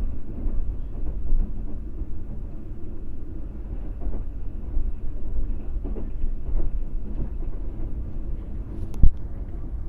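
Passenger train running along the track, heard from inside the coach as a steady low rumble with a few faint knocks. A single sharp knock comes near the end.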